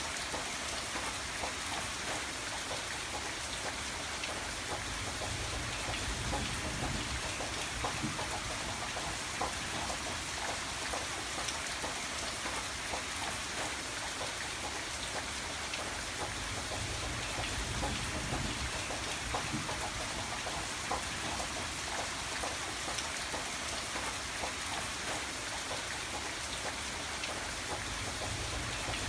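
Steady rain falling and pattering on a surface, with dense small drop ticks over a low rumble that swells and fades now and then.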